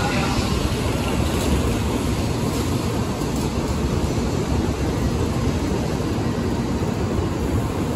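Steady low rumble with a hiss over it from Shinkansen bullet trains standing at the platform, with the general noise of a busy station platform.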